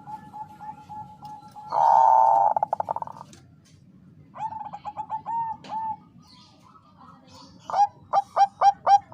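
Zebra dove (Bangkok perkutut) cooing: a faint fast trill, a loud phrase about two seconds in, then runs of short staccato coos, the last run loud at about three notes a second.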